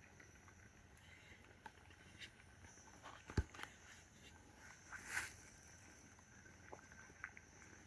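Quiet scattered knocks and rustles from handling, with one sharper knock about three and a half seconds in and a brief rustle near five seconds. A steady thin high-pitched tone starts a few seconds in.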